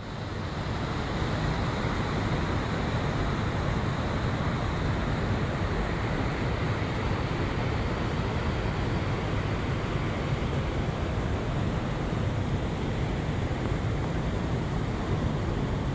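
Steady rushing of a waterfall, fading in over the first second and then holding even.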